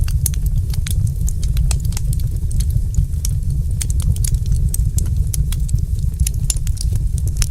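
Fireplace fire crackling, with many sharp, irregular pops and snaps over a steady low rumble.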